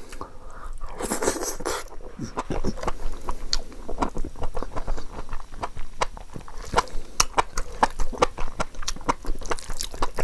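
Close-miked eating sounds: wet chewing and many quick mouth clicks and smacks over a mouthful of rice and chicken-mushroom curry eaten by hand, with a brief hiss of breath or slurp about a second in.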